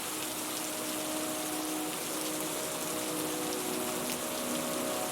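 Steady rain falling on outdoor surfaces, an even hiss, with faint held low tones underneath.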